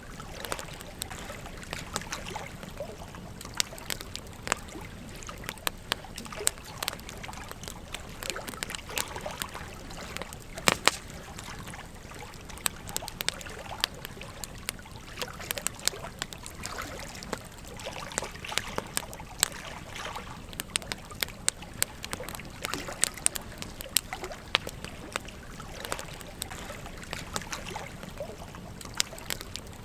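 Wood campfire crackling with frequent sharp clicks, over a steady trickling stream. One louder crack about eleven seconds in.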